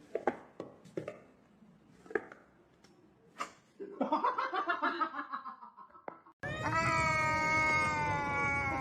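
A few light taps, then a cat's wavering vocal sounds, then a cat's long, loud, drawn-out yowl that starts abruptly about two-thirds of the way in, its pitch sinking slightly.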